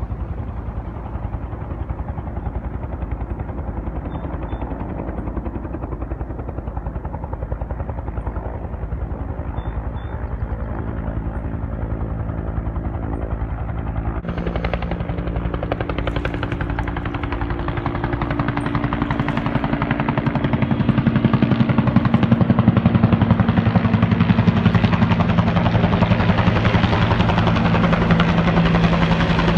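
Helicopter rotor beating in a fast, even chop over a steady engine hum; it grows louder about two-thirds of the way through.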